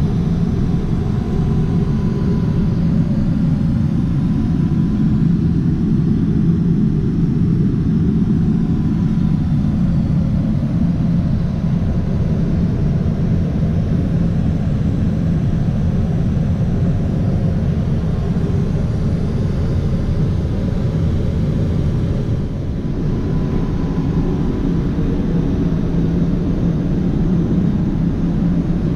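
Steady low rumble of a Boeing 777-300ER cabin in flight, from engine and airflow noise, briefly dipping a little about 22 seconds in.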